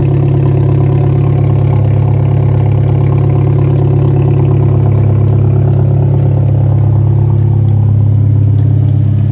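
2013 Hyundai Genesis Coupe 2.0T's turbocharged four-cylinder engine idling steadily and loud, warming up after a cold start following three months unstarted.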